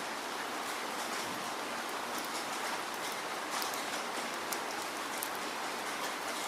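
Steady falling rain: an even hiss of rainfall with scattered individual drops ticking on a surface.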